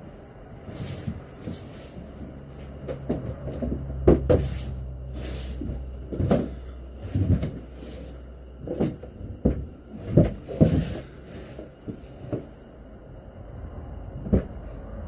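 Irregular knocks and clunks from metal tools and parts being handled in a workshop, a dozen or so strikes spread unevenly, the loudest about four seconds in and again near the end. A low steady hum sounds for the first half and stops about halfway through.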